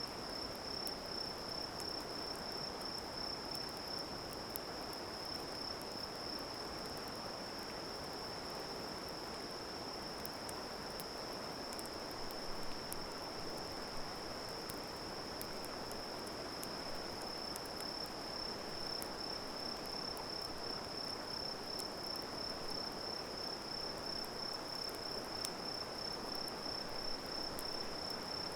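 Insects trilling in one unbroken high-pitched tone over a steady hiss, with scattered faint crackles from a campfire.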